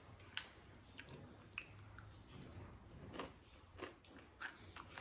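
Quiet close-up chewing of a mouthful of rice and kimchi, with a handful of irregular sharp mouth clicks and the light tap of a fork against the plate.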